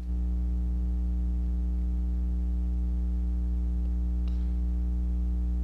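Steady electrical mains hum: a constant low buzz with its overtones and no other sound.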